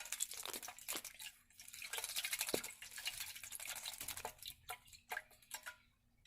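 A young starling bathing: irregular water splashes and drips, busiest about two seconds in, then thinning out.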